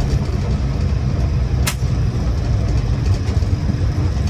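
Land Rover Series 1 88-inch's 2-litre four-cylinder petrol engine running steadily on the move, a low drone with road noise. A single sharp click sounds about one and a half seconds in.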